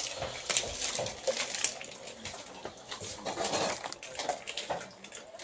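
Dogs chewing and crunching treats: irregular quick crunches and clicks.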